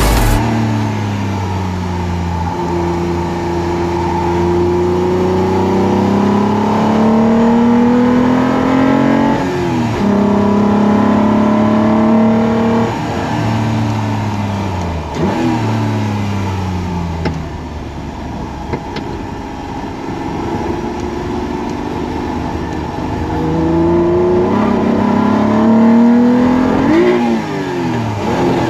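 Engine of a V6-converted Toyota MR2 Spyder heard from on board at track speed, pulling hard, its pitch climbing and then dropping sharply at each gear change or lift, several times over.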